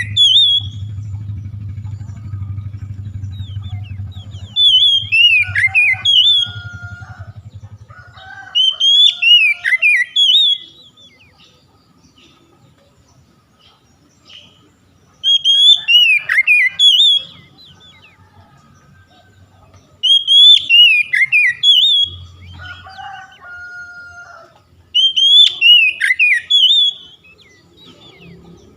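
Oriental magpie-robin (kacer) singing: loud phrases of quick whistled notes sliding up and down, each about two seconds long, repeated five times roughly every five seconds, with softer lower notes in between. A low hum sits beneath the song for the first several seconds.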